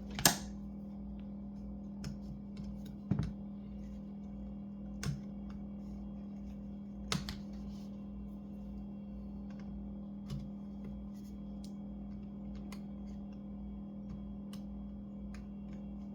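Scattered light clicks and taps of small tools and parts being handled on a laptop during disassembly, the loudest just after the start, over a steady low hum.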